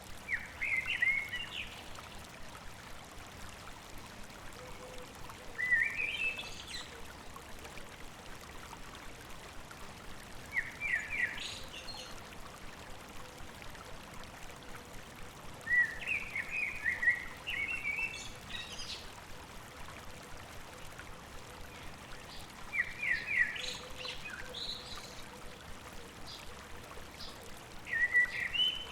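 A songbird repeats a short, quick phrase of high notes about every five seconds, six times, over the steady rush of a flowing stream.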